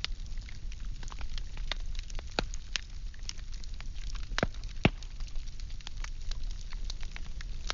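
Wood fire burning, with a steady low rumble and irregular crackles and snaps; two louder pops come a little past halfway.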